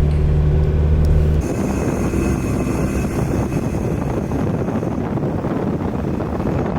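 Steady low drone of a car heard from inside; about a second and a half in it cuts abruptly to a rough, even rushing noise.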